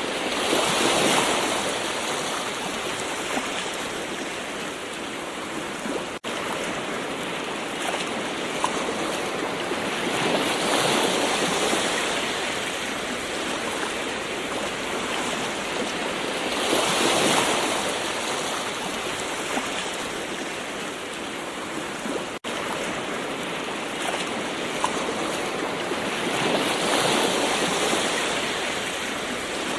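Gentle ocean waves: a steady hiss of surf that swells four times as waves break, with two very brief dropouts in the sound.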